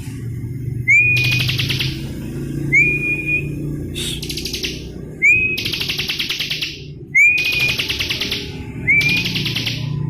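Bar-winged prinia (ciblek) singing loudly in repeated phrases, about five in all: each opens with a short rising whistle that levels off, then breaks into a fast buzzy trill lasting about a second.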